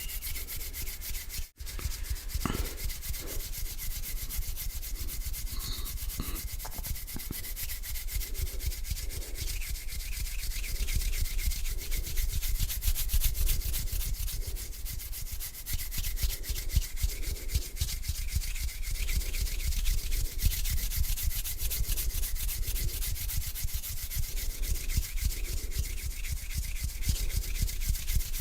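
Hands rubbing together close to the microphone, a continuous dry swishing friction that briefly cuts out about one and a half seconds in.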